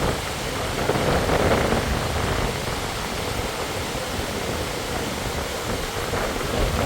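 Waterfall: a steady, dense rush of falling water, a little louder between about one and two seconds in.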